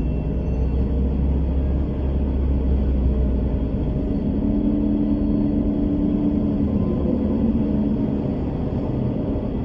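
Bus running on the road: a steady low engine and road rumble, with a humming engine note that comes in about four seconds in and fades out again by about eight seconds.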